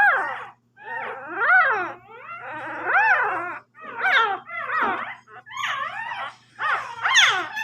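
Newborn puppy crying: a run of about seven high whining squeals, each rising and then falling in pitch, with short gaps between them.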